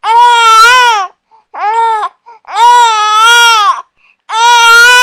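Infant crying: a run of loud, high wails, four in a row with brief breaths between, the second one short and the last one long.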